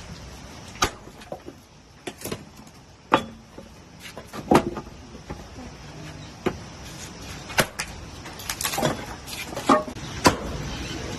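A series of irregular sharp knocks and clacks, about a dozen, over a steady hiss.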